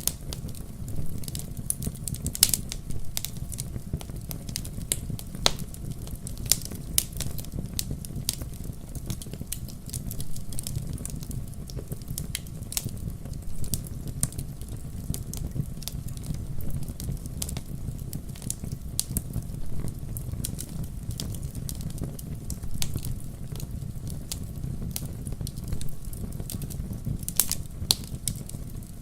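Wood fire in a fireplace crackling: irregular sharp snaps and pops, a few much louder than the rest, over a steady low rumble of the burning fire.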